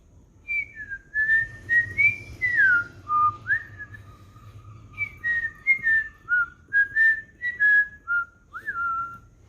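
Miliquin macaw (military × harlequin macaw hybrid) whistling a tune: a string of clear whistled notes, some sliding up or down, with one long low note held for about two seconds a few seconds in.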